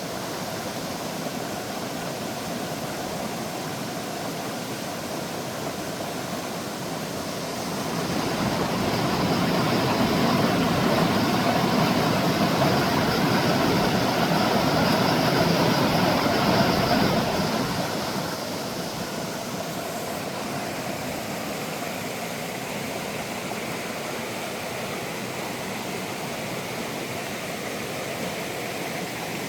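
Mountain stream rushing steadily over rocks. In the middle a louder swell of rumbling noise rises and fades again over about ten seconds.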